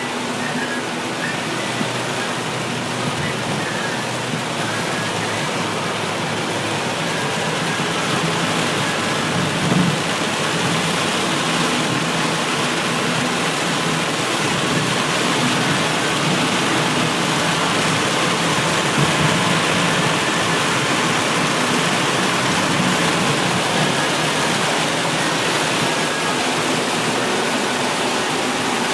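Heavy rain and rushing rainwater: a steady, dense hiss that slowly gets a little louder.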